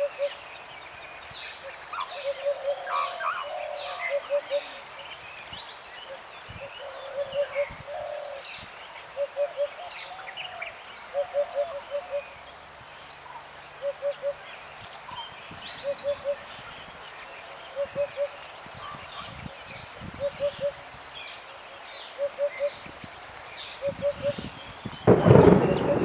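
Birds calling: one bird repeats a short low call of two to four quick notes every second or two, over scattered higher chirps and trills from other birds. Near the end a loud rush of noise swells for about a second.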